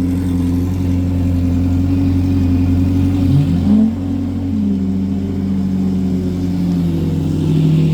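Car engine idling steadily, with a short rev blip about three and a half seconds in, then settling back to idle.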